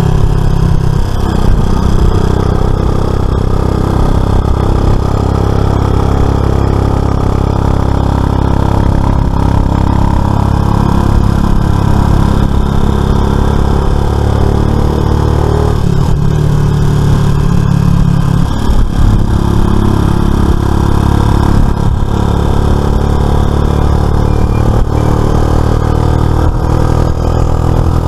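Suzuki FL125 Address scooter's small single-cylinder four-stroke engine running on the road under way, steady, with its pitch changing a few times as the throttle opens and eases off.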